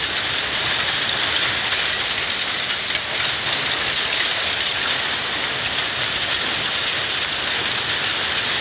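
Heavy hail falling steadily, a dense continuous clatter of hailstones striking hard surfaces with little rain.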